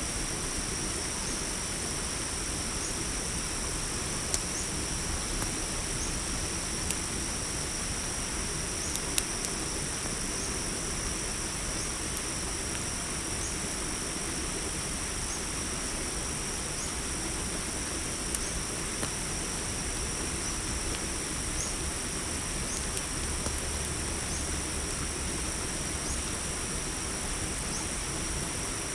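A steady chorus of crickets trilling high and continuous over a soft hiss, with a few sharp pops from a crackling campfire scattered through it.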